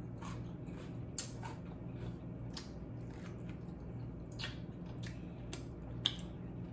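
Close-up wet eating sounds: chewing, lip smacks and small clicks of the mouth as pieces of pork chop are eaten by hand. There is a sharper smack about six seconds in as fingers are sucked clean.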